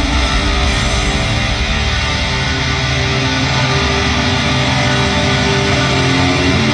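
A hard rock band playing live, led by electric guitars, with the music loud and steady throughout.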